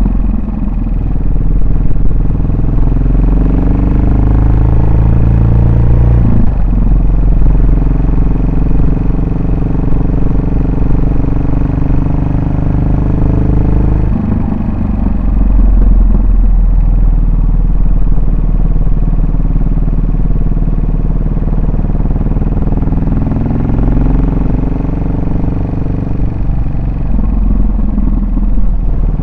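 Yamaha SR400's air-cooled single-cylinder four-stroke engine and exhaust while riding. The engine note rises in pitch as it accelerates, drops sharply about six seconds in at a gear change, falls again around fourteen seconds as the rider eases off, and picks up once more near the end.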